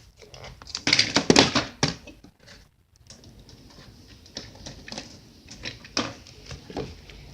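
Scattered light clicks and taps, in two short flurries about a second in and again near six seconds, typical of small hard toys being handled.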